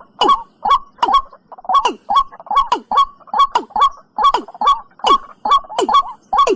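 Recorded watercock (cúm núm) call in its two-part form: short calls repeated quickly, about two or three a second, each a note with a falling sweep.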